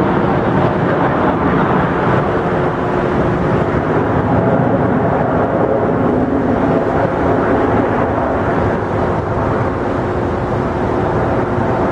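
Jet airliner engines running loud and steady, with a faint steady hum tone through the noise, easing slightly near the end.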